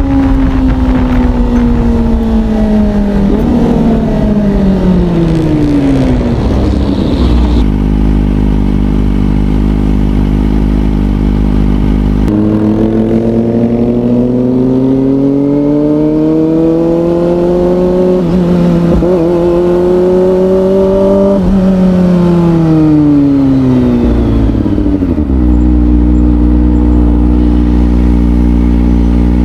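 Kawasaki ZX25R's inline-four engine through an Orion aftermarket exhaust: the revs fall away for the first several seconds and it runs low and steady, then it pulls up through the revs for several seconds with a brief dip, like a gear change, before falling back and running low and steady again near the end.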